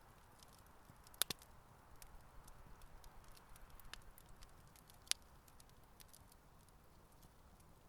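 Campfire burning quietly: a soft hiss of flames with scattered tiny ticks and a few sharp wood pops, the loudest about a second in and again about five seconds in.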